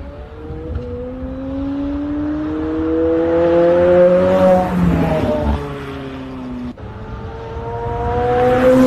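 McLaren supercar engine accelerating hard toward the listener, its pitch climbing until it passes about four seconds in, then dropping away. After an abrupt break, an engine rises in pitch again near the end.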